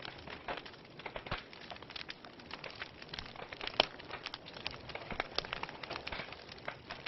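Wood fire crackling in a fireplace: irregular sharp pops and snaps from burning logs over a soft steady hiss of flame, with one louder pop about four seconds in.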